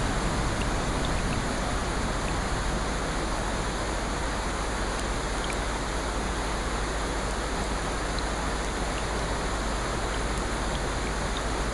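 Steady rain: an even hiss, with faint scattered drop ticks here and there.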